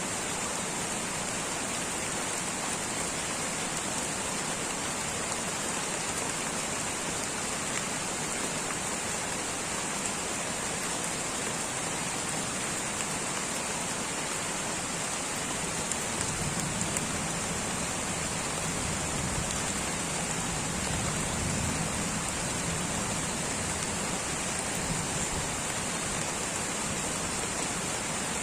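Light rain falling steadily in a tropical rainforest, an even continuous patter and hiss. A low rumble swells in a little past the middle.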